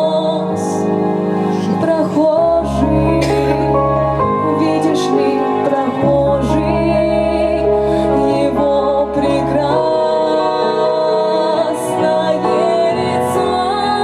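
A woman singing a slow church song over instrumental backing music.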